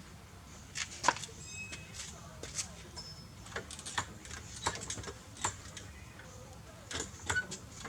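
Metal hand tools and parts clinking and knocking on metal: a dozen or so scattered sharp clicks and taps, a few ringing briefly.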